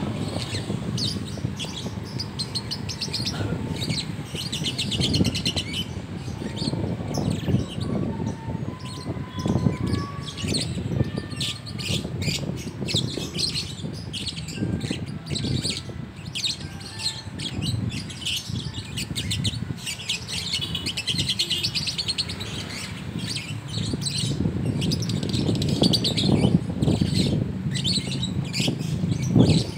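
Young lovebirds in fight mode chattering in a continuous stream of rapid, shrill trills and calls, with dull low thuds mixed in. This agitated fight chatter is used as a provocation recording to get pet lovebirds to respond.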